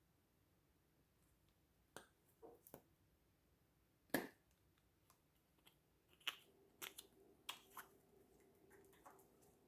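Slime being handled: scattered sticky clicks and pops, the loudest about four seconds in and more frequent in the second half, with a faint steady hum coming in about six seconds in.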